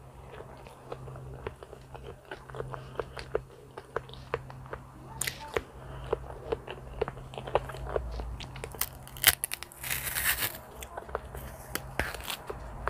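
Close-miked chewing of soft banana, with many small wet mouth clicks. About ten seconds in comes a brief tearing rasp as a banana peel is pulled open. A low steady hum runs underneath.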